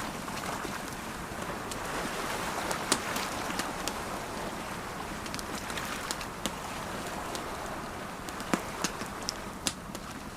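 Campfire crackling, with sharp pops scattered through (one loud pop about three seconds in, several more near the end), over the steady wash of ocean waves.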